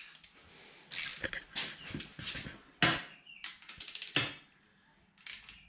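Hand tools working on the steel hub and spindle parts: several sharp metallic clinks and clanks, with scraping between them, as a wrench is set on a nut.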